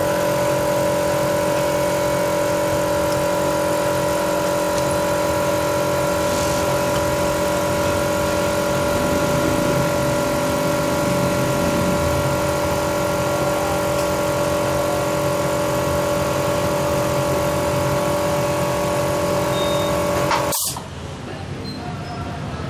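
Datsun GO+ car engine running at a steady speed, a constant even hum with no change in pitch, which cuts off abruptly about twenty seconds in.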